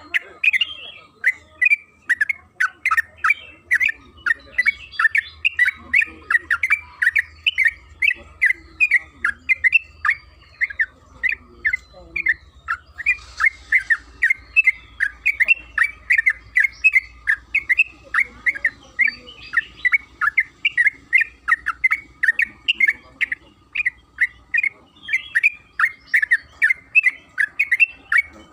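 Yellow-vented bulbul (trucukan) singing a long, unbroken run of quick chattering notes, about two to three a second, the continuous 'ropel' song used as a lure to set other bulbuls calling.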